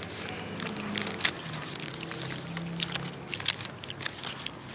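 Someone chewing a bite of a Nestlé Lion Peanut chocolate bar, with scattered small crunches and clicks.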